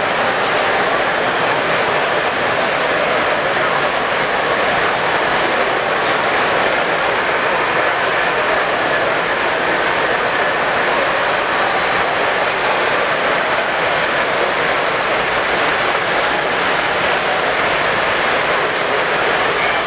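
Steady background din of a busy exhibition hall, a dense wash of crowd noise without distinct events.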